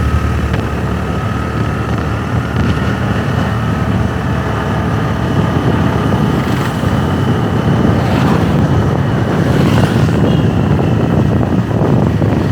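Motorbike engine running while riding, with a steady low rumble throughout.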